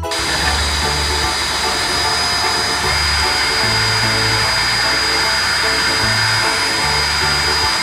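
Cartoon street-sweeper sound effect: a steady machine hiss with a constant high whine, over background music with a stepping bass line.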